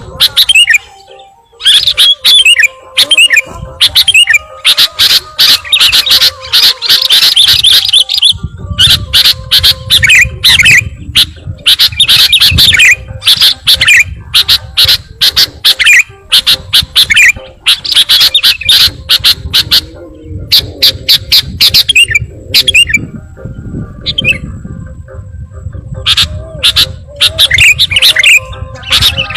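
Sooty-headed bulbul (kutilang) lure call: loud runs of quick, chattering whistled notes with short gaps between them, over a low rumble.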